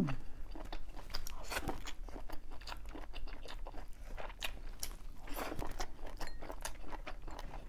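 Close-miked chewing of a mouthful of octopus, a steady run of small clicks and smacks from the mouth.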